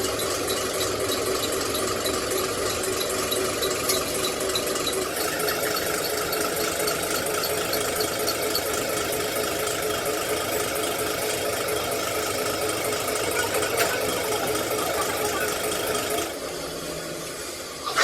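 A machine running steadily with a mechanical rattle; its pitch steps up slightly about five seconds in, and it stops about sixteen seconds in.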